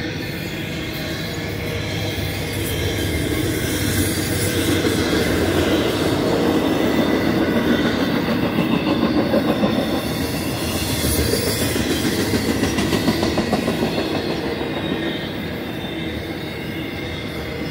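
Intermodal freight cars (double-stack container wells and trailer flatcars) rolling past on the mainline: a steady rumble of steel wheels on rail, louder through the middle, with a quick clatter of wheel clicks.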